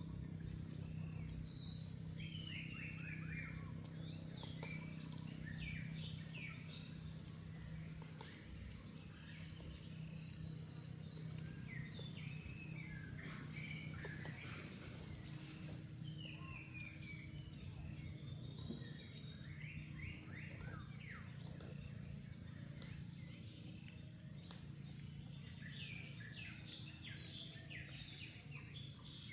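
Birds chirping: short, high, downward-sliding chirps come in small clusters again and again over a steady low hum.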